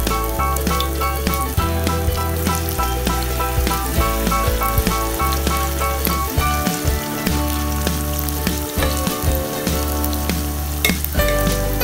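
Radish fritters sizzling and crackling as they shallow-fry in hot oil, over light background music with a steady bass.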